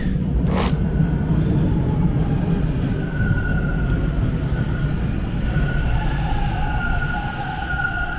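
Toronto subway train at the platform: a low rumble, with a steady electric motor whine that sets in about three seconds in. A short click sounds about half a second in.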